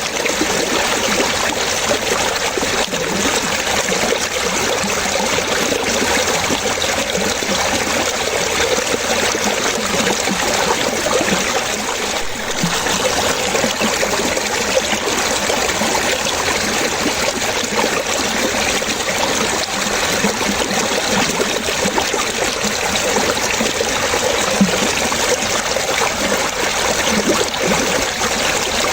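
Water trickling and splashing in a steady, continuous flow, like a small stream.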